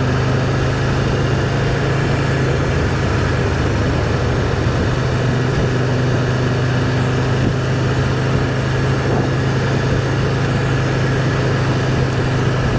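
Can-Am Spyder's three-cylinder engine running steadily while riding, with a constant low drone under a steady rush of wind and road noise.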